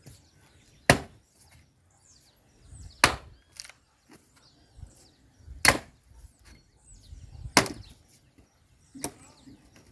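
Firewood being chopped by hand: five heavy blows of a blade biting into wood, about two seconds apart.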